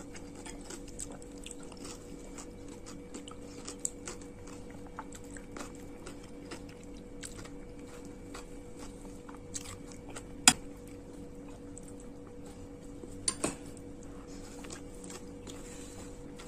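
Close-miked chewing, with many small wet mouth clicks and a few sharper clicks about ten and thirteen seconds in, over a steady low hum.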